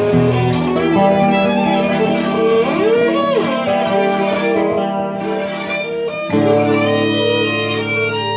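Acoustic guitar and violin improvising together, with sustained notes and chords. A pitch slides up and back down about three seconds in, and a new, fuller chord comes in a little past six seconds.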